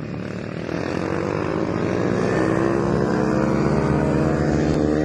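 110cc mini motorcycle racing engines revving up under acceleration, their pitch rising over the first few seconds, then holding high and growing louder.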